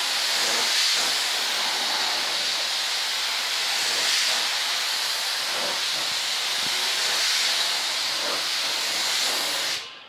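Primer being sprayed onto a model airplane, one long continuous hiss that cuts off suddenly near the end, laying down a light cover coat.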